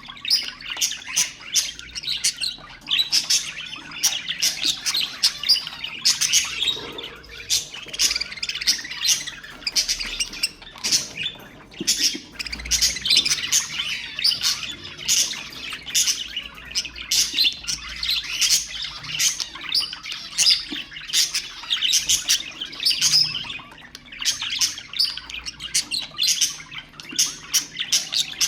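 Budgerigars chattering steadily, a dense run of quick chirps, warbles and sharp clicky notes.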